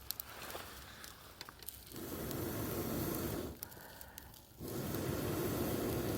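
Campfire crackling with scattered sharp pops, then two long stretches of rushing air noise about a second and a half each, with a short break between them.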